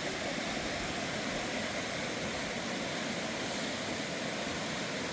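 Steady rushing water, like a stream or small waterfall, a constant hiss without change.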